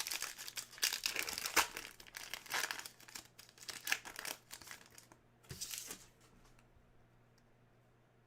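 Plastic trading-card packaging crinkling and rustling in the hands, in quick crackly handfuls through the first six seconds, then fading to quiet.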